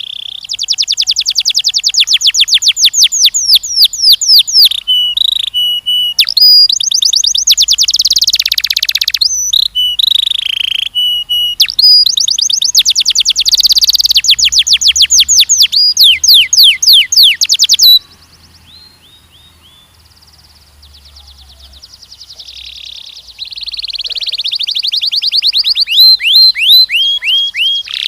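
A canary singing long, rapid trills of quick downward-sweeping whistles, roll after roll with brief breaks. About two-thirds of the way through the song stops for a few seconds, then builds back into another loud trill.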